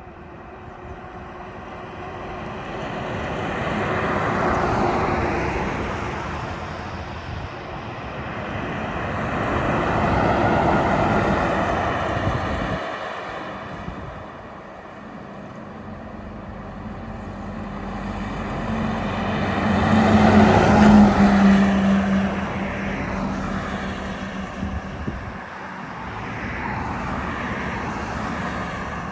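Heavy trucks passing one after another on a highway, each pass of tyre and engine noise swelling and then fading away. Four pass by; the loudest, about two-thirds of the way through, carries a steady low engine drone.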